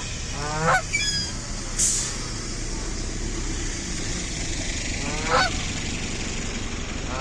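Canada geese honking: single loud honks about a second in and again around five seconds, with another at the very end. A short run of high, thin calls follows the first honk, over a steady low background hum.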